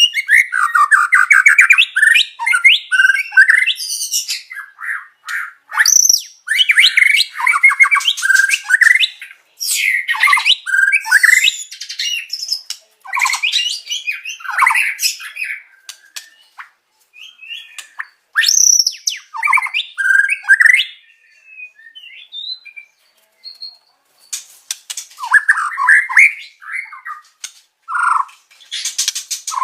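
White-rumped shama (murai batu) singing a loud, varied song: phrases of fast trills, chatters and whistled notes, broken by short pauses about halfway and about two-thirds of the way through, with mimicked calls of other songbirds such as canary woven in.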